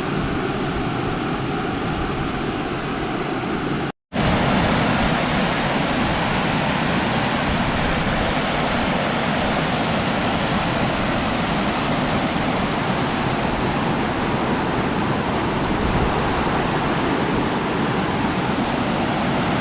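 Steady rush of wind noise on the microphone of a moving bicycle. It cuts out completely for a moment about four seconds in, then comes back slightly louder.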